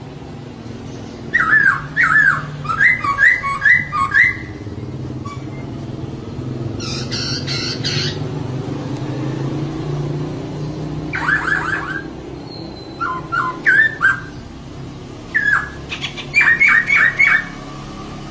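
Female poksay (laughingthrush) calling in five bursts of quick, repeated, downward-sliding chirps, over a steady low hum.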